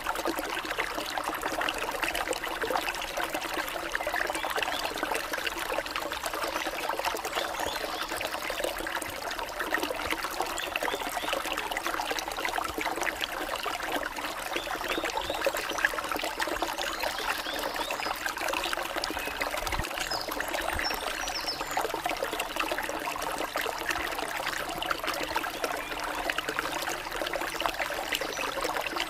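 Stream water trickling and splashing in a steady, unbroken flow.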